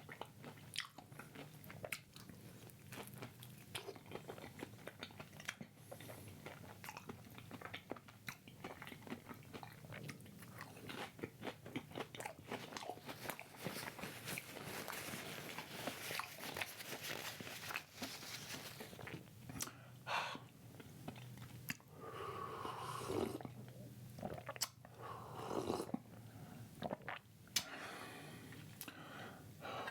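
Close-miked eating: irregular biting, chewing and mouth smacks as a banana lumpia with a slightly soggy wrapper is chewed. Two short hums from the eater come about three quarters of the way through.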